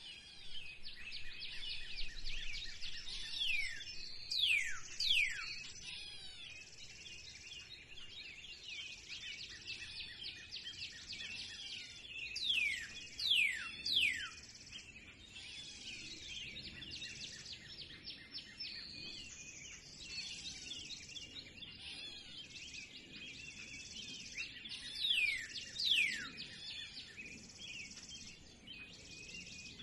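A spring chorus of many songbirds chirping and twittering continuously. Three times, roughly every ten seconds, one louder bird gives two or three sharply falling whistled notes.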